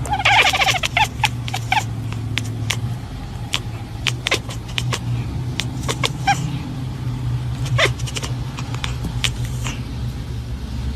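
A cat meowing loudly in a wavering call during the first two seconds, with a couple of short calls later. Under it runs a steady low hum, with scattered sharp clicks throughout.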